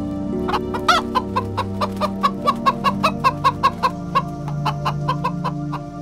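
Hens clucking: a quick run of short clucks, about four a second, with a louder squawk near the start, over background music with held low notes.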